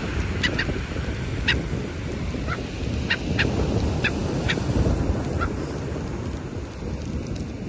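A bird giving a series of short, clipped calls, about nine in the first five and a half seconds, then stopping. The calls are heard over steady wind rumble on the microphone.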